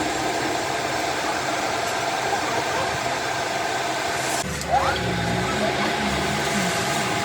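A machine running steadily, with a short rising squeal and an abrupt change in the noise about four and a half seconds in.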